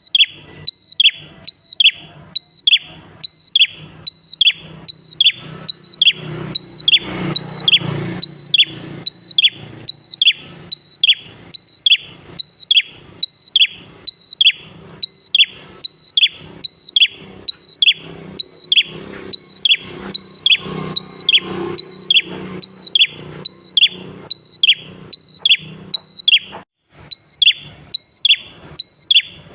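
A prinia (prenjak klawu) calling in a fast, even series of identical sharp notes, a little over one a second, each a short high whistle that drops away at the end, with one brief pause near the end.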